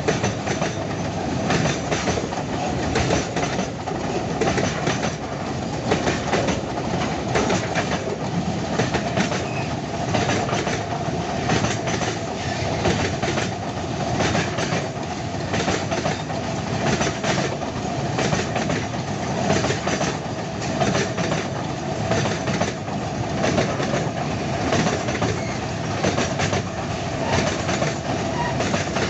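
Loaded freight wagons rolling past, wheels clacking in a steady, continuous run of clicks over the rails with a constant rumble underneath.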